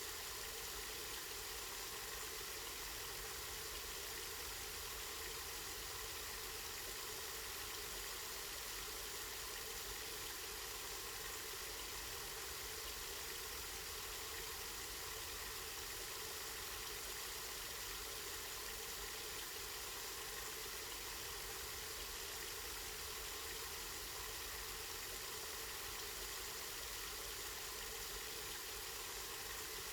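Spring water running steadily, an even rushing noise with no breaks.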